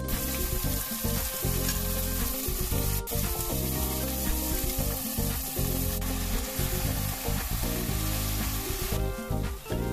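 Minced chicken, onion and curry spices frying in oil in an enamel pot, sizzling steadily while a wooden spoon stirs them. The sizzle drops away about nine seconds in.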